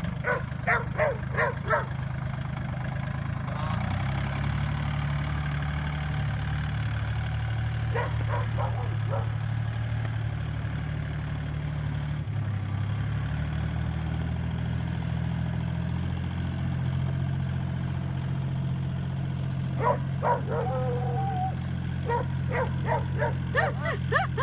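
A dog barking in quick bursts of several barks at a time over the steady low drone of a running tractor engine, whose pitch shifts a couple of times. Near the end the barking comes more often, with a rising whining yelp among it.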